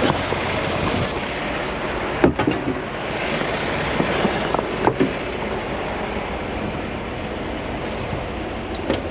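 Steady running noise of heavy trucks, with a few sharp metallic clanks about two, five and nine seconds in.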